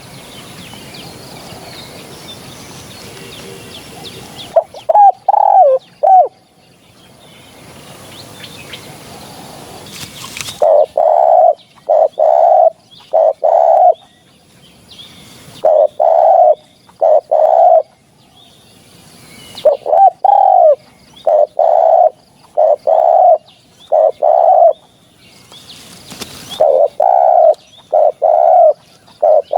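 Spotted dove cooing, short repeated coo phrases of several notes each, coming close together from about a third of the way in. A steady hiss fills the first third, broken by one brief coo phrase.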